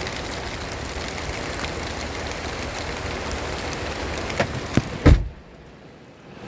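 A steady hiss, then two light clicks and a heavy thump about five seconds in, after which the hiss drops away sharply: a car door being pulled shut, sealing out the noise from outside.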